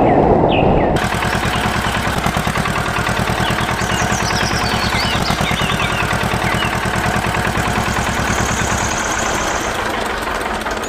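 Tractor diesel engine idling with a steady, even chugging knock, with birds chirping faintly above it. It follows about a second of dense, low rushing noise.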